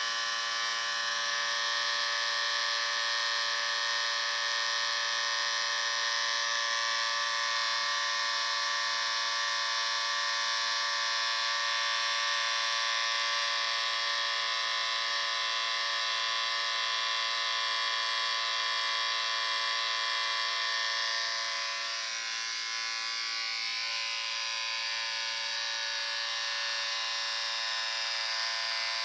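Electric shaver running with a steady motor buzz. The level dips slightly and the tone shifts for a couple of seconds about three-quarters of the way through, then it evens out again.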